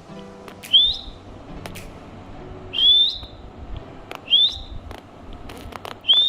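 A pet parrot whistling: four short calls, each sweeping up in pitch and levelling off high, the last one held longer. Faint clicks come between the calls.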